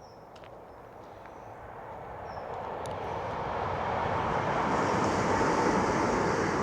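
West Midlands Railway passenger train approaching, its rumble growing steadily louder, with a faint steady whine joining in near the end.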